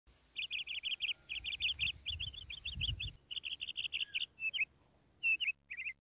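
A songbird chirping in fast runs of short, bright notes, about eight a second, which break into shorter groups after about three seconds. A low rumble lies under the first three seconds.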